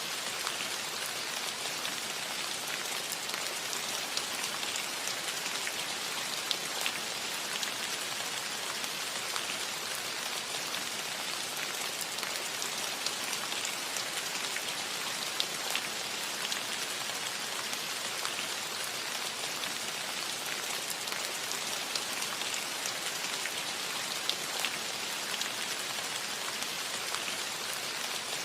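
Steady rain falling on a cottage roof: an even hiss with many scattered, sharper individual drop ticks.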